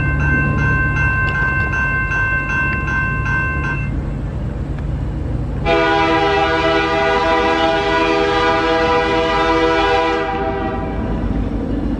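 Train passing with a low rumble. At first a steady high-pitched ringing with regular ticks about twice a second is heard. It stops, and a little later a locomotive horn sounds one long blast of about four seconds.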